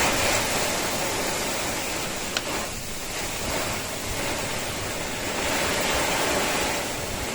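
Steady rushing noise that swells and eases, with one sharp tick about two and a half seconds in.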